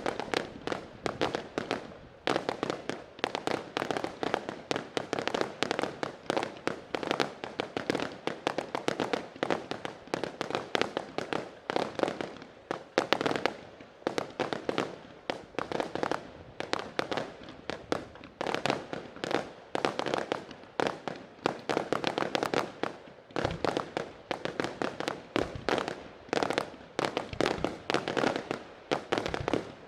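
Fireworks display: a rapid, continuous barrage of aerial shell bursts and crackle, several bangs a second with no pause.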